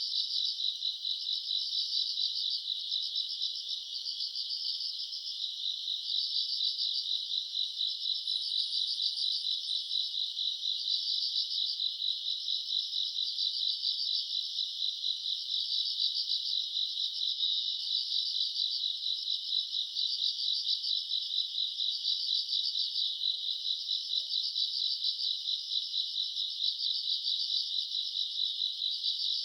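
Night chorus of grass insects: many insects chirping together in a dense, steady, pulsing trill, with a fainter, higher-pitched insect pulsing above it.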